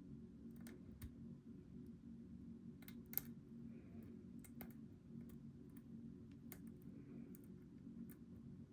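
Faint, irregular metallic clicks of a lock pick working the pin stacks inside a Goal V18 lock, about eight in all with a sharper one about three seconds in, over a steady low hum.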